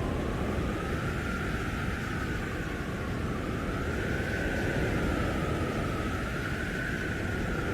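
Blizzard wind blowing hard with a steady rumbling rush, and a howling whistle that slowly rises and falls in pitch.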